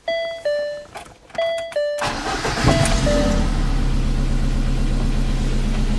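Electronic two-note beeps sound twice. About two seconds in, the VAZ-2114's engine starts and settles into a steady, loud idle through a straight-through 51 mm exhaust with a 4-2-1 'Subaru Sound' header. The muffler joint, which had been rattling, has just been tightened.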